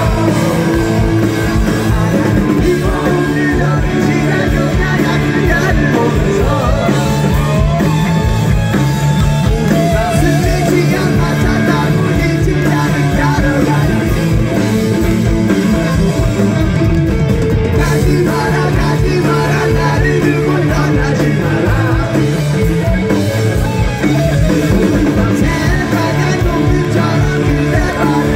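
Live punk rock band playing loud and steady: singing over electric guitars and drums, recorded from the crowd at an outdoor concert.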